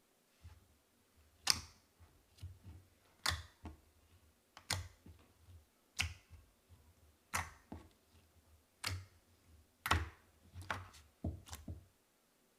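Slime being pressed and poked in a plastic palette, making a sharp sticky click or pop about every second and a half, with quicker clicks near the end and low handling noise between them.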